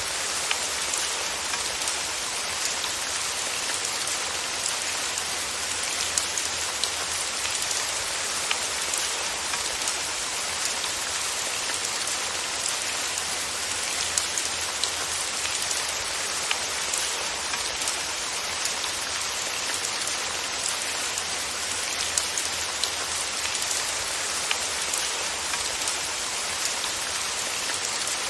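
Steady rain falling, an even hiss with many small drops pattering and ticking on a surface.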